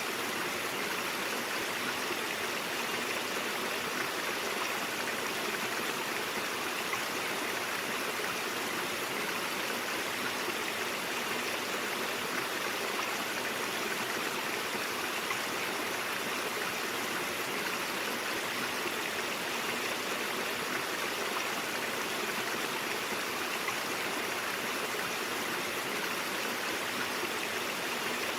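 Brook water running in a steady, unbroken rush.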